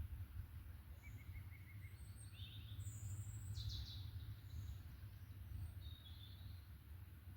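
Forest birds calling and singing faintly: a short trill of quick notes about a second in, then a high, descending phrase around the middle and a few brief chirps near the end, over a low, steady background rumble.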